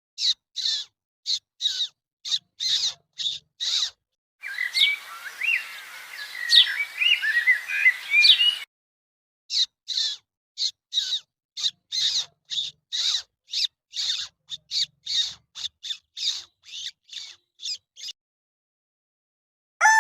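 A small animal calling in a steady series of short, high chirps, about two to three a second. Midway there is a few seconds of warbling bird song over a hiss, and then the chirping resumes.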